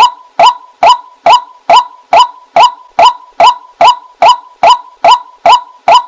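White-breasted waterhen call, a loud 'kwak' repeated at a perfectly even pace of about two and a half calls a second: a recorded lure call for bringing the birds in.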